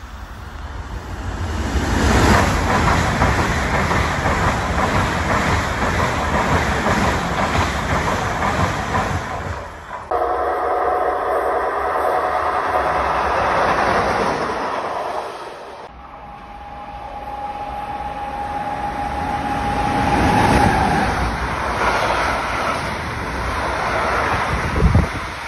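Trains passing through a station on an electrified line, heard in several short cuts: first a loud, dense rush of a passing train, later a steady tone, then a long container freight train rolling past with its wagons clattering.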